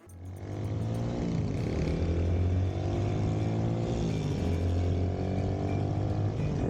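Small motorcycle engine running under way, its pitch dipping and climbing again about a second and a half in and again around four seconds.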